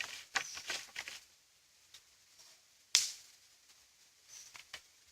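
Dry twigs crackling and snapping: a few scattered cracks, and one sharp, loud crack about three seconds in.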